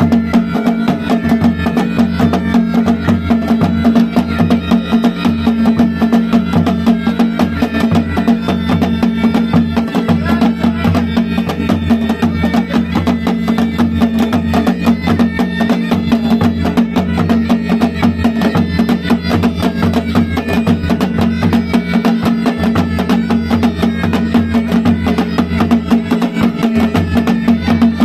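Pahadi band music: a masak been bagpipe plays a melody over its steady drone, with fast, continuous dhol and nagada drumming.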